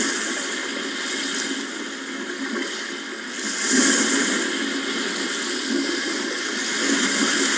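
Sea waves washing on the shore: a steady rush of surf that swells as a wave breaks about four seconds in.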